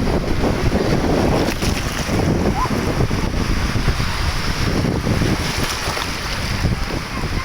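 Wind buffeting the microphone: a loud, uneven low rumble of noise.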